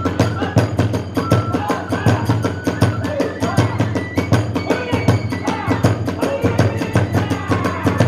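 Kagura hayashi ensemble playing a fast, driving beat: rapid strikes of drums and small hand cymbals over a deep big-drum pulse, with a bamboo flute holding short high notes.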